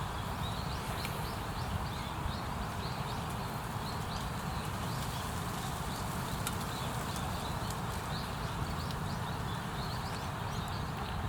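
Small birds calling with quick, repeated high chirps over a steady background rush of outdoor noise, with a few sharp clicks.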